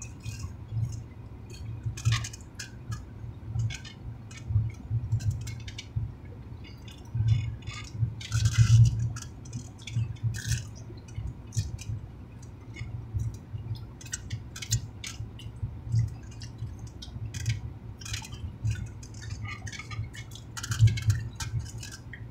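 People chewing and biting into food, with many short wet mouth clicks at an uneven pace.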